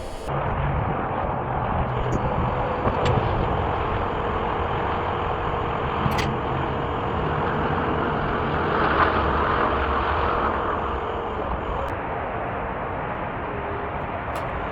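Vehicle engine running steadily with a low hum, a faint steady whine and a few sharp clicks.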